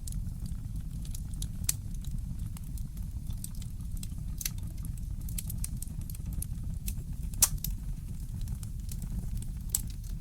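Wood fire in a fireplace crackling, with irregular sharp pops, the loudest about seven seconds in, over a steady low rumble.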